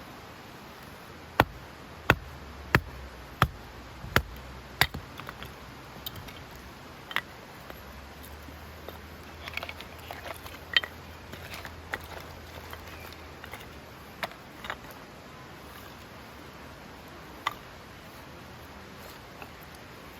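Axe chopping firewood: six sharp strikes about two-thirds of a second apart, each with a dull thud, followed by lighter scattered knocks and clicks as the wood is handled.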